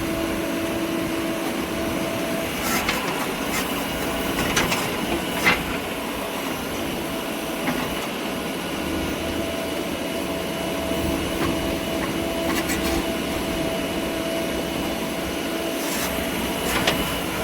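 A heavy machine's engine running steadily, with a held hum that swells and fades and a few sharp clanks.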